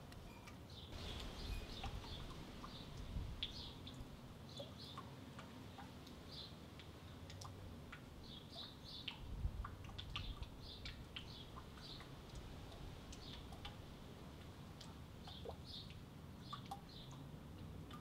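Small birds chirping: short, high chirps in quick little clusters, repeated every second or so.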